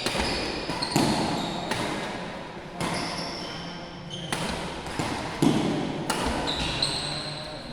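Badminton rally: racket strikes on the shuttlecock about once a second, each trailing off in the hall's echo, with shoes squeaking on the court floor between hits.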